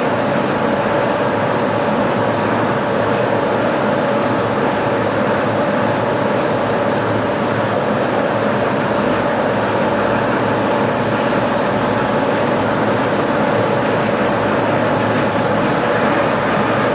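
A metalworking machine tool running steadily: a continuous mechanical hum and hiss with a steady tone in it, unchanging throughout.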